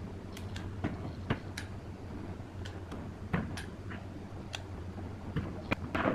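Irregular sharp clicks and taps of small parts and tools being handled during bench work on a transistor power amplifier, over a steady low hum. The loudest clicks come about a third of the way in and at the very end.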